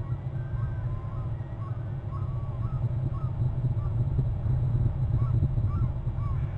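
A bird calling in a quick series of short chirping notes over a steady low rumble.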